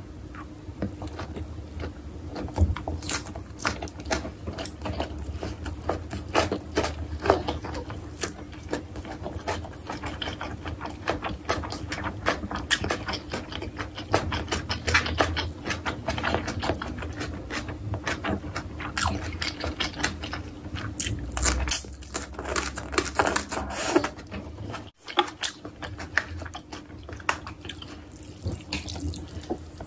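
Close-miked wet chewing and mouth smacking of kimbap and kimchi: dense, irregular clicks and smacks over a faint steady hum, with a brief drop-out about 25 seconds in.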